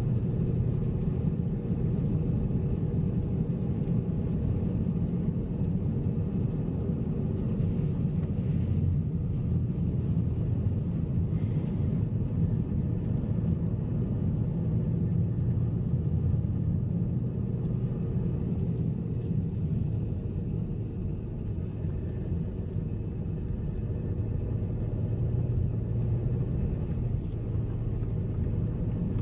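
Car driving on a snow-covered, icy road: a steady low rumble of engine and tyre noise that holds evenly throughout.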